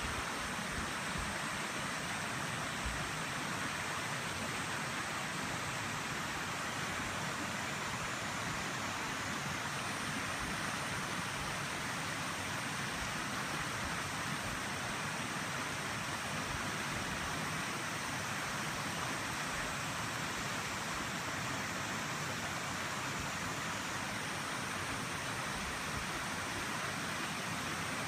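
Steady rush of flowing water in a mountain river gorge, an even, unbroken wash of sound.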